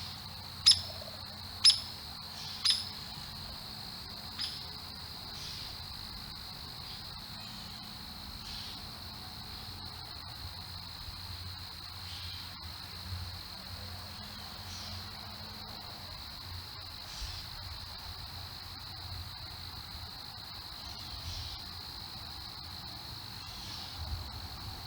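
Steady, continuous high trill of crickets. Three sharp, loud chip notes about a second apart sound near the start, with a few fainter ones later.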